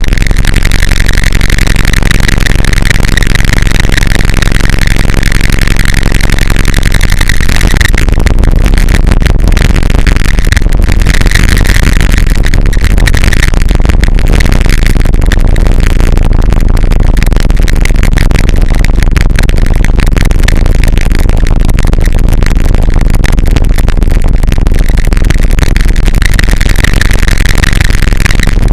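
Harsh noise music: a dense, heavily distorted wall of noise at full loudness, built from sampled blacksmith-forge recordings. It crackles throughout, with a steady low hum underneath until about seven seconds in.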